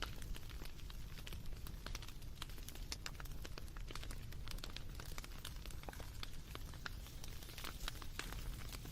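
Wood fire crackling: a dense run of small, irregular pops and snaps over a low, steady rumble.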